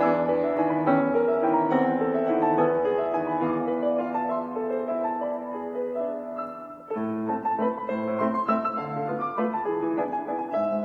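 Piano music, with held chords and a melody; about two-thirds through it dips briefly and a new phrase starts with deeper bass notes.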